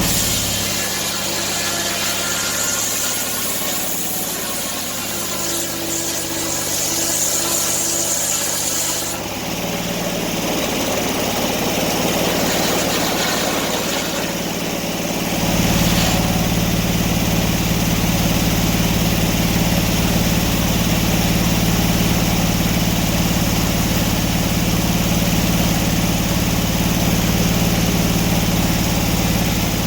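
An engine running steadily at idle. Its sound changes about a second in, again around nine seconds, and again around fifteen seconds, when the deep low part comes back in fully.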